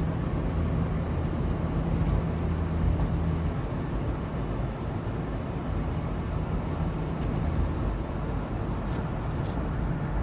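Chevrolet van driving, with a steady engine hum and road noise and no clunk or rattle from the rear. The loose rear shock bolt has been taken up with wire packed between the bolt and the body.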